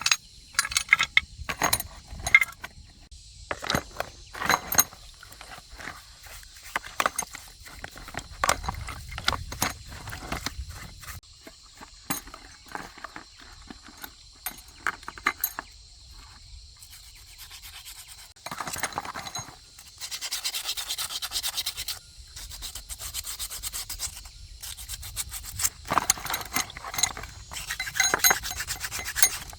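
Hand work on tractor parts: scattered sharp clinks and knocks of metal pieces, then bouts of fast, even scraping strokes, like brushing or filing a part clean, about two-thirds of the way through and again near the end.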